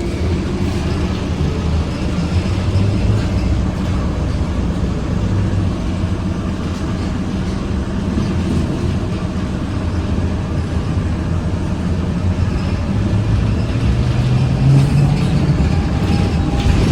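ZiU-682 trolleybus running along, heard from on board: a steady low rumble and hum from the motor and the road. Near the end the hum rises a little in pitch.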